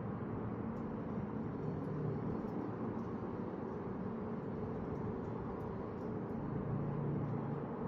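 Steady low hum and hiss of background noise with no clear events.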